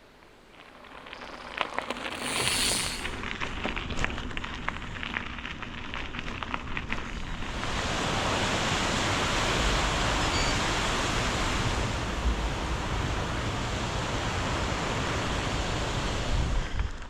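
Scattered crackling and ticking, then from about seven seconds in a steady, loud rushing noise that cuts off suddenly at the end.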